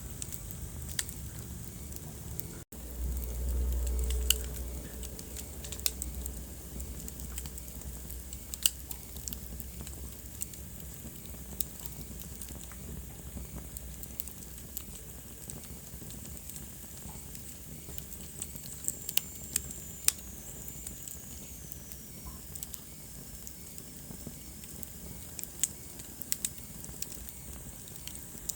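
Wood fire burning in a fireplace, crackling steadily with sharp pops scattered throughout. A low rumble swells for a few seconds early on, and a faint high whistle falls in pitch about two-thirds of the way through.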